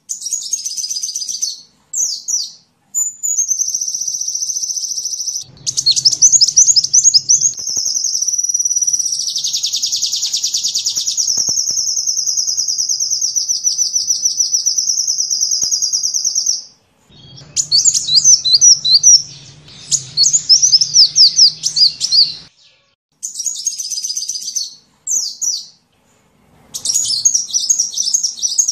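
Sunbird ('kolibri') song: high-pitched trills and rapid chirping phrases, with one long unbroken trill lasting about twelve seconds, broken by a few sudden short silences.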